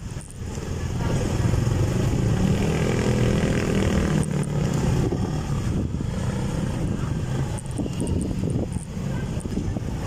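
Wind noise on the microphone during a ride, with a motor vehicle's engine running, most prominent about two to five seconds in.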